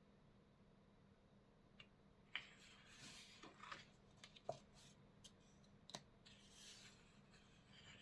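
Faint handling noises: a scattering of small clicks and short rustles from about two seconds in until about seven seconds in, over a low steady hum.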